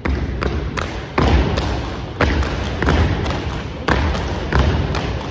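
Unarmed drill team stepping in unison: sharp stomps and hand slaps on the body, struck together, a string of them at uneven spacing, a few a second at most.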